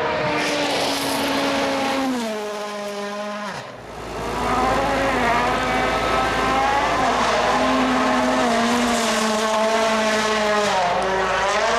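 World Rally Car's turbocharged 1.6-litre four-cylinder engine at high revs; the note drops in steps as the car lifts and shifts down about two to three seconds in. From about four seconds a car is loud again at full throttle, the pitch stepping with gear changes, with some tyre noise.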